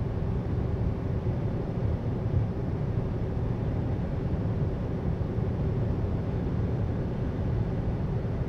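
Steady engine and road noise inside a semi-truck's cab while driving.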